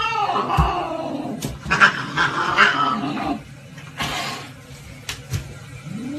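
Pet animal calls: a drawn-out yowling call that dies away about half a second in, then rougher, growl-like calls for a second or two, and a short rising-and-falling call near the end.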